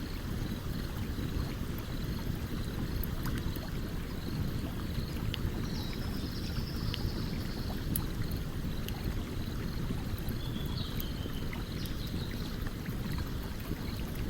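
Steady rushing of a stream under a campfire, with scattered sharp crackling pops from the burning wood. High chirps repeat steadily in the background, and two short high trills come a little before halfway and again later.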